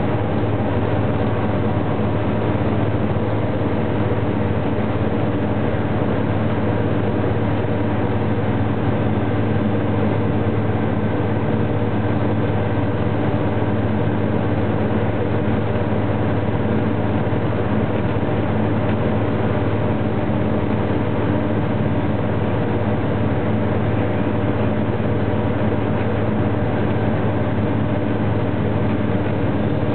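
Fire engine's engine and road noise as the truck drives along, a steady low drone at an even speed.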